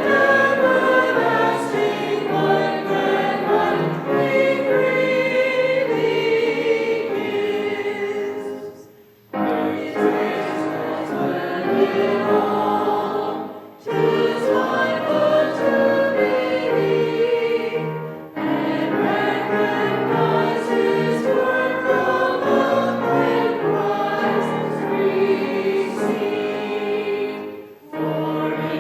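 A church congregation singing a hymn together. It is sung in long phrases, with brief pauses between lines about every four to nine seconds.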